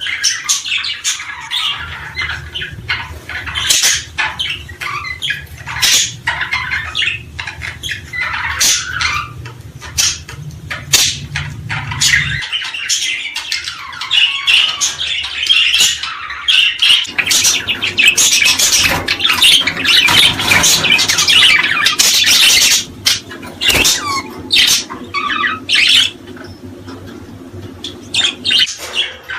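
A group of small birds chirping and squawking in a dense, unbroken chatter of short, sharp calls. A low steady hum runs underneath, dropping out for a few seconds in the middle.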